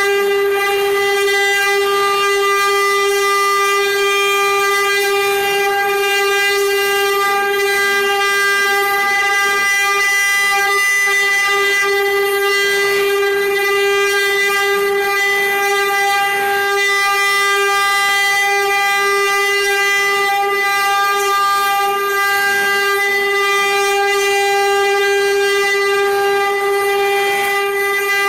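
Spindles of a six-head CNC cutting and engraving machine running at speed: one steady high whine that holds its pitch throughout, with a faint hiss behind it.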